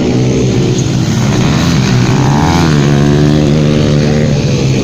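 150cc motocross bike engines running loud, their pitch climbing about two seconds in as the throttle opens.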